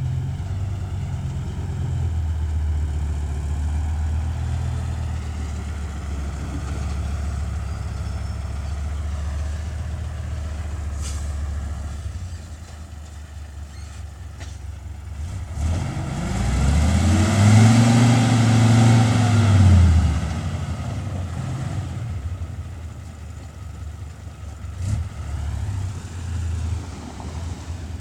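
Isuzu 10PD dump truck's V10 diesel engine running steadily, easing off, then revving up and back down over about four seconds past the middle before settling to a lower run.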